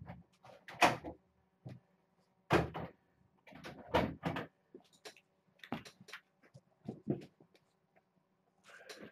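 Kittens playing with their toys and box: a run of irregular knocks, bumps and rattles, some close together, the loudest about one, two and a half and four seconds in.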